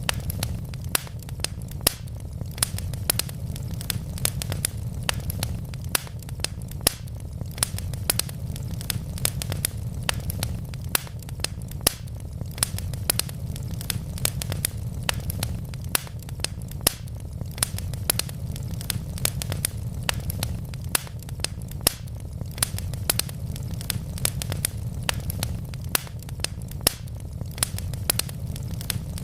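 Wood logs burning in a fireplace, crackling and popping with many sharp irregular snaps a second over a steady low rumble of the flames.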